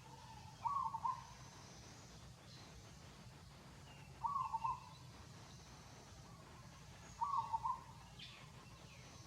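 A bird calls three times, a short call about every three seconds, with faint high chirps in the background.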